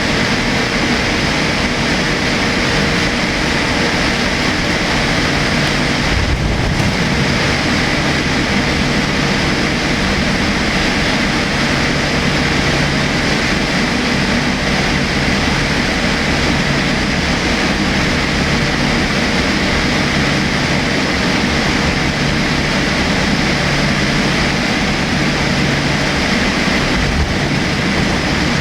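Steady in-flight cabin noise of a Boeing 787-8 airliner: a constant rush of engine and airflow noise with a faint steady hum, and a brief low bump about six seconds in.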